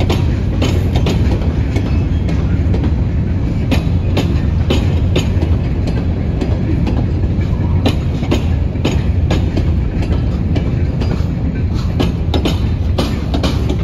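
Empty Herzog hopper cars of a freight train rolling past: a steady low rumble of steel wheels on rail with frequent irregular clanks and clicks.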